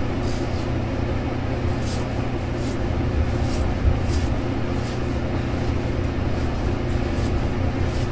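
Steady low hum with a few short, scratchy strokes of a shave on the face, a brush or razor drawn across stubble.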